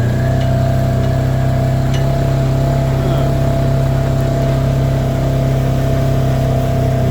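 A vehicle engine running steadily, its pitch rising a little right at the start and then holding level.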